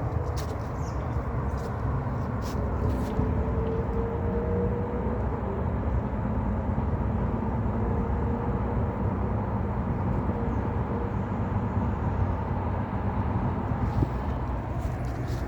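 A steady low rumble with a few faint, thin clicks in the first three seconds.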